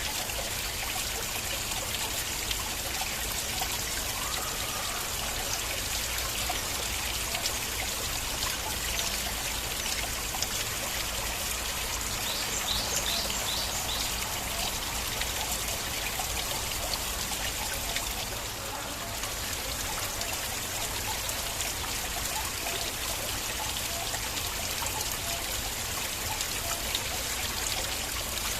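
A small stream flowing and trickling steadily, with a close, splashing running-water sound.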